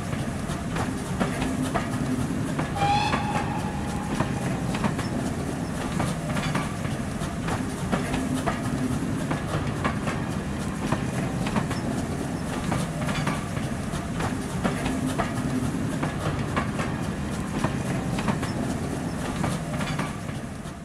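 A train rolling past, its wheels clicking over rail joints over a steady low rumble. A brief whistle-like tone sounds about three seconds in.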